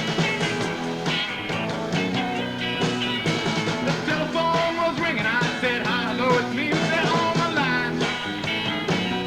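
Live rock band playing: electric guitars, bass and drums, with a lead line bending up and down in pitch through the middle.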